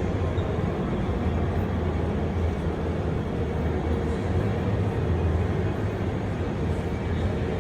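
Steady low rumble of background ambience in a large exhibition hall, with no distinct events.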